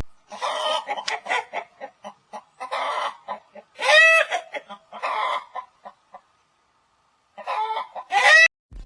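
Chickens clucking in short bursts, with louder drawn-out squawks about four seconds in and again near the end, and a brief pause in between.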